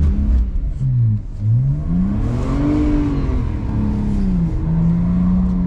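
BMW 128i's straight-six engine with a muffler delete, revving up and falling back: a short rise and fall, then a longer, higher climb and drop, settling to a steady note near the end.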